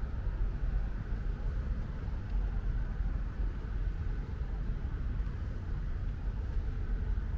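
Light rain falling, with a steady low rumble of road traffic running beneath it.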